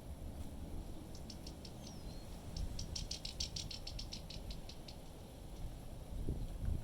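A small animal's call: a rapid, dry chatter of high clicks, about six a second, in two runs. Wind rumbles on the microphone underneath.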